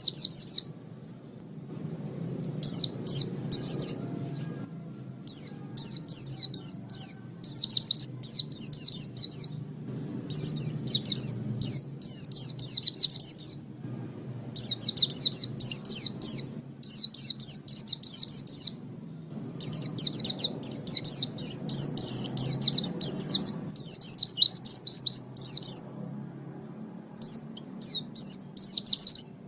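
White-eye (pleci) singing: rapid, high twittering song phrases, each lasting one to a few seconds, separated by short pauses, over a faint low rumble.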